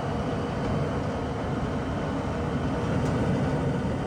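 1994 Tempstar SP80 gas furnace running with its burners lit: a steady low-pitched noise of flame and blower.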